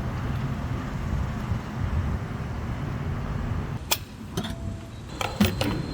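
Steady low rumble like a vehicle on the move, then a run of sharp clicks and knocks starting about four seconds in, with a thin high tone sounding through the last second.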